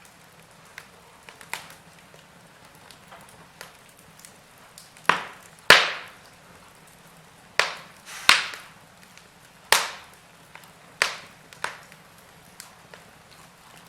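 Wood fire crackling in a fireplace: a faint low hiss with scattered sharp pops and snaps, the loudest coming about every second or so from about five seconds in.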